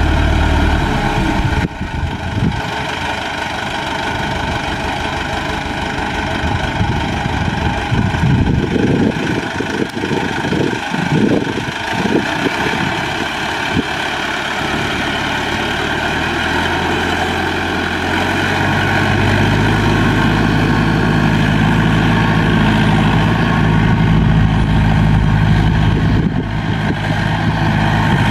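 Diesel engine of a modified Landini tractor working as a dozer, running continuously. Some uneven low rumbling comes in the middle, and about two-thirds of the way in the engine note becomes deeper and stronger.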